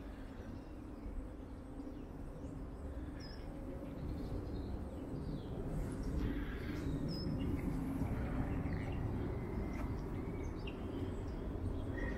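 A few scattered high, short bird chirps over a steady low rumble of outdoor background noise.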